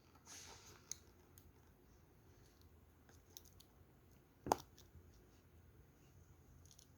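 Faint handling noises with a few small clicks, and one sharper click about four and a half seconds in.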